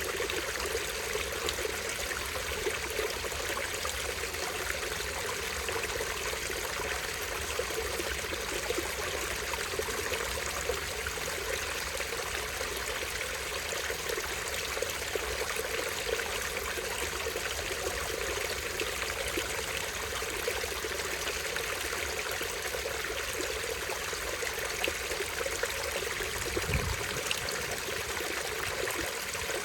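A small stream spilling over a tiny waterfall: steady rushing and trickling water without a break. A brief low thump sounds near the end.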